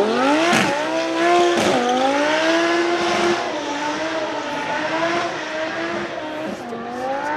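A drift car's engine revving hard, its pitch climbing and dropping repeatedly as the throttle is worked, over tyre squeal from the sliding rear tyres.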